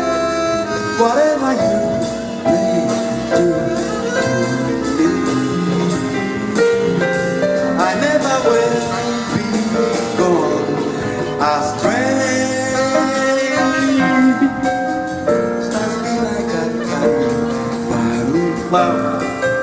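Live jazz combo playing: a wavering melody line over chords, bass and a steady drum beat.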